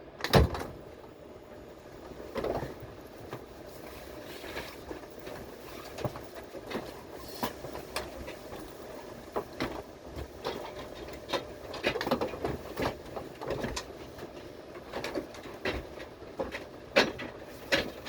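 Subway train running, heard from inside the car: a steady rumble with frequent irregular clacks and knocks from the wheels and car body. The loudest is a sharp knock about half a second in.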